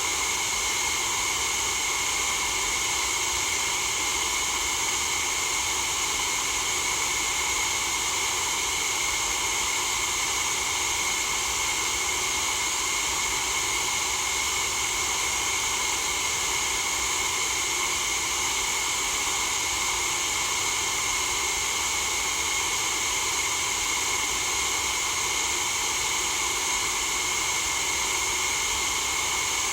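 Steady white noise for sleep: an even, unchanging hiss, strongest in the high range, with no breaks or variation.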